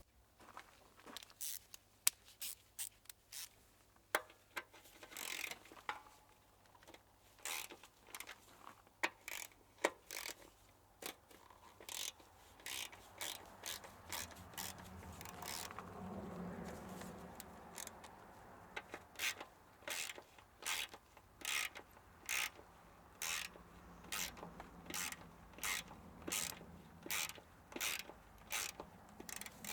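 A long series of sharp mechanical clicks from hand work on a moped, scattered at first and then coming evenly about twice every second in the second half, with a rougher, lower rubbing sound in the middle.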